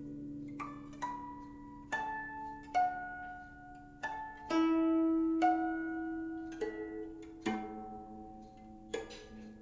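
Slow solo on a Chinese plucked zither: about ten single notes plucked a second or so apart, each left to ring and fade.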